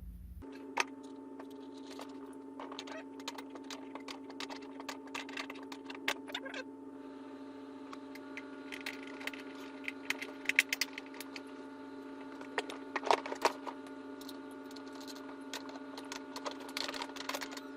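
Irregular light clicks and rattles of small parts being handled while assembling a ride-on electric toy car, over a steady hum; the clicks come thickest around ten and thirteen seconds in.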